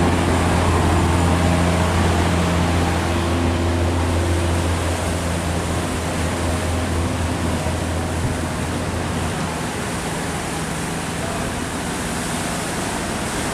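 A passing boat's engine running with a steady low hum that fades away after about eight seconds, over a constant rushing hiss.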